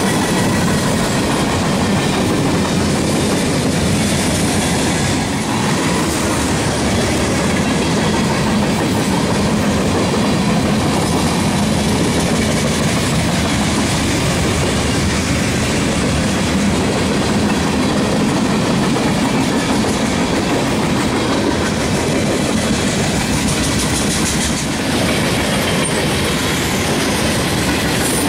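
Freight train cars rolling past at close range: a steady, loud noise of steel wheels running on the rails, with no locomotive horn.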